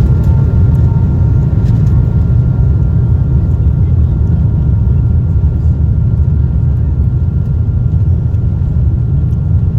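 Boeing 777 jet engines at takeoff power, heard from inside the passenger cabin: a loud, steady low rumble with a thin, steady high whine above it.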